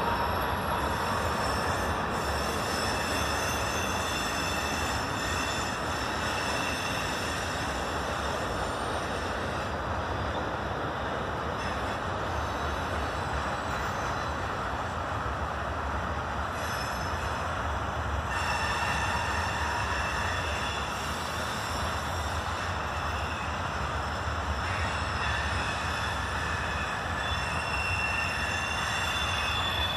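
Freight train of tank cars and covered hoppers rolling past: a steady rumble of wheels on rails, with high-pitched wheel squeal that fades in the middle and returns louder near the end.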